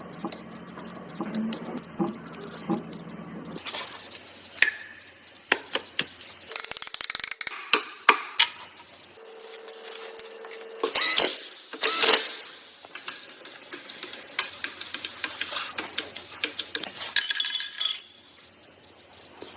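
Two long bursts of high hissing spray, with scattered clicks and knocks of metal parts between them and a brief steady hum near the middle.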